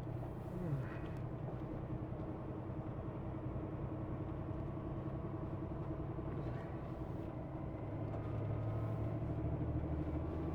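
Semi truck's diesel engine running steadily under load, heard from inside the cab; the low drone gets louder about eight seconds in.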